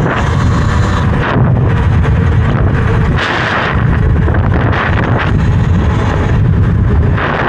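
Loud wind buffeting on the microphone of a rider moving on a Talaria electric dirt bike, a rumbling roar with gusts that swell and fade every second or two.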